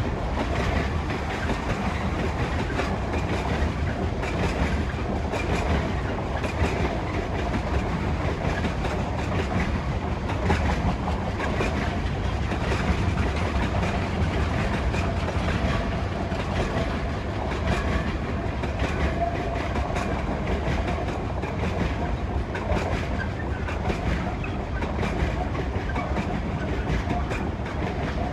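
Freight train of covered wagons rolling past with a steady rumble, its wheels clicking over the rail joints again and again.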